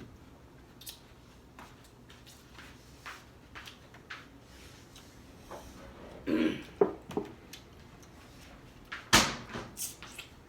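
Scattered light clicks and knocks of tableware and food being handled at a table during a meal. There is a short cluster of knocks about six and a half seconds in and one louder sharp knock about nine seconds in.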